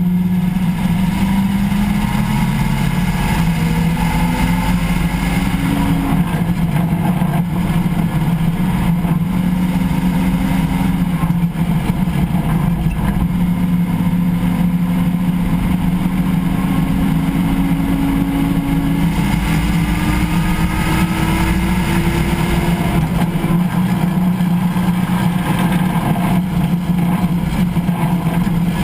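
Vehicle driveline recorded at the differential pinion while driving: a steady low drone with whining tones that slowly rise and fall in pitch with road speed.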